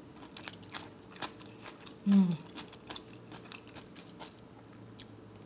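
Close-up crunchy chewing of cucumber salad (oi-muchim), a run of small sharp crunches, with one short hummed 'mm' about two seconds in.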